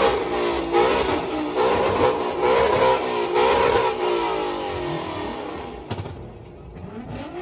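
Ford Mustang's engine revved hard several times in a row, the pitch climbing and dropping with each blip of the throttle, then easing off to a few shorter revs near the end.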